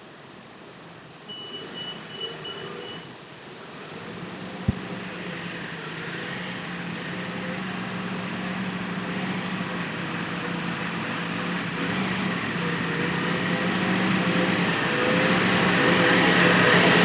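Tractor engine running steadily, growing louder as it comes closer.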